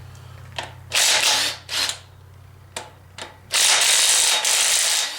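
Impact wrench running in bursts as it loosens the flywheel bolts: a short burst about a second in, a brief second one, then a longer run of about a second and a half near the end. A steady low hum stops about three and a half seconds in.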